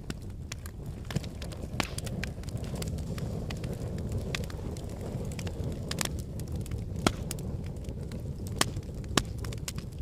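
Wood fire burning in a fireplace: a steady low rumble of flames with irregular sharp crackles and pops from the logs, a few louder snaps in the later part.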